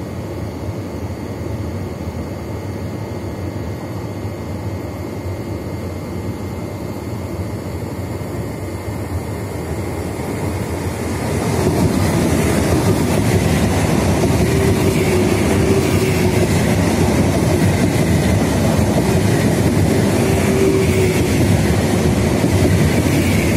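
Frecciarossa 1000 high-speed electric train approaching and then running past close by. It grows louder about eleven seconds in, into a steady rush of wheels on rail with a humming tone.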